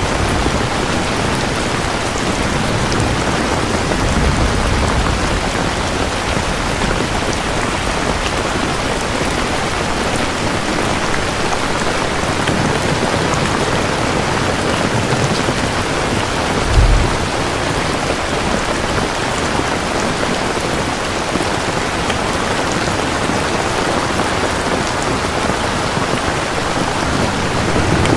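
Steady rain falling, an even hiss of drops, with low rumbles of thunder now and then and one short low thump about two-thirds of the way through.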